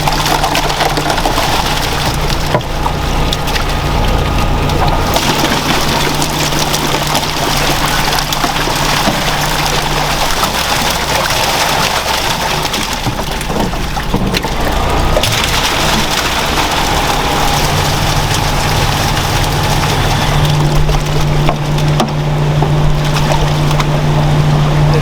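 Food-factory work noise: continual crunching and clattering over a steady low machine hum that drops away in the middle and comes back louder near the end.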